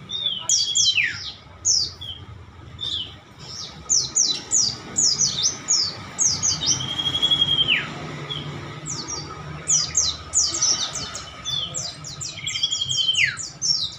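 Many caged songbirds chirping together in a dense, overlapping chorus of quick, high, falling chirps. A longer whistle that holds a note and then drops sharply is heard three times.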